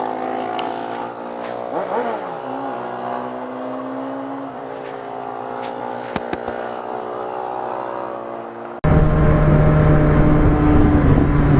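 Motorcycle engine running steadily under way. About three-quarters of the way in, the sound cuts abruptly to a much louder engine.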